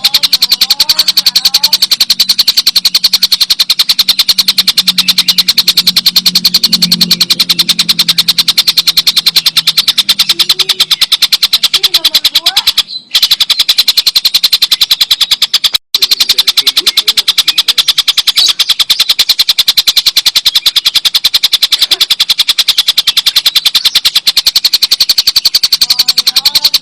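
Stork-billed kingfisher (tengkek buto) giving its long, loud cackling call: a fast, unbroken run of sharp repeated notes. It breaks off twice for a moment partway through.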